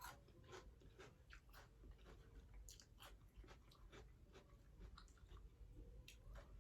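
A person chewing raw celery with faint, irregular crunches.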